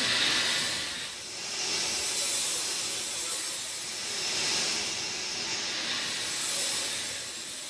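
Steady rain falling, a dense hiss that swells and eases every few seconds.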